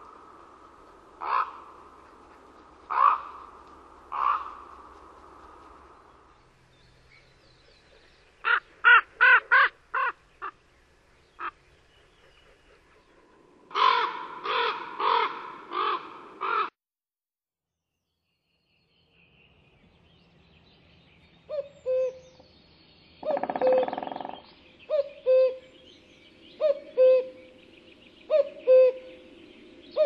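Wild birds calling, in several different recordings: four loud spaced calls, then quick runs of calls, a brief cut to silence, then calls repeated about once a second.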